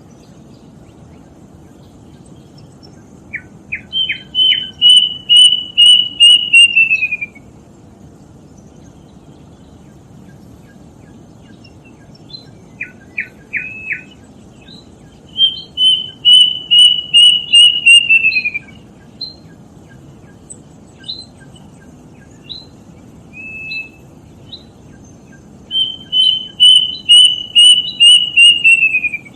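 Plaintive cuckoo (kedasih) singing in three bouts. Each is a few short notes, then a run of about ten whistled notes that speeds up and falls in pitch at the end, over a faint low hum.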